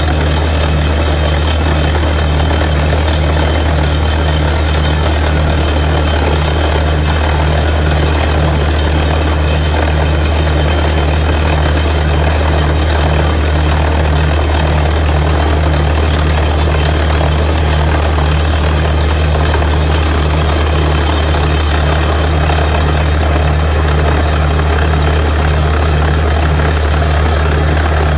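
Borewell drilling rig running: a loud, steady heavy engine drone with a low, evenly pulsing throb and a wide noisy hiss over it.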